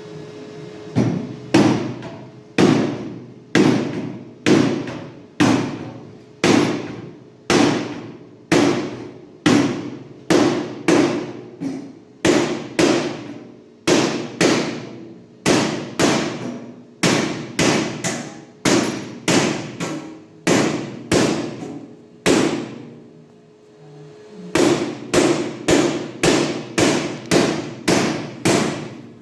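A hammer striking metal repeatedly, a little more than one blow a second, each blow ringing briefly. After a gap of about two seconds near the end, the blows come quicker, about two a second.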